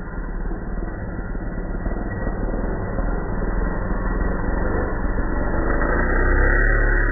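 Small nitro glow engine of an RC monster truck running, a fast, even buzz that grows steadily louder.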